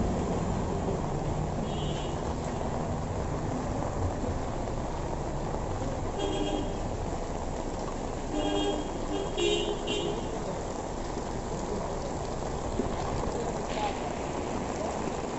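Steady rain on a wet city street with traffic noise, and short vehicle horn toots: one about two seconds in, another around six seconds, and a quick cluster of several near the middle. A low engine rumble from a car fades out in the first couple of seconds.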